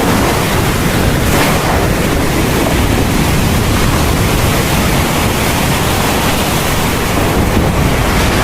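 Heavy rain falling steadily in a dense, even hiss, with a slight swell about a second and a half in.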